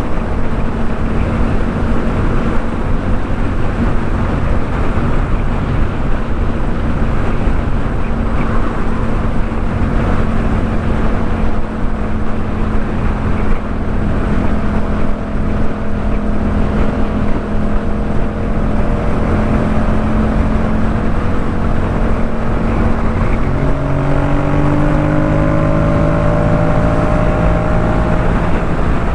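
Yamaha MT-07's parallel-twin engine running through a Jeskap K4 full exhaust, holding steady revs while riding, with wind rushing over the microphone. About 23 seconds in the revs drop, then climb steadily as the bike accelerates.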